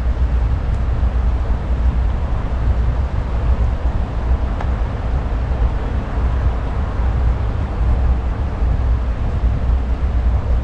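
Wind buffeting the microphone: a steady, uneven low rumble over a rushing hiss.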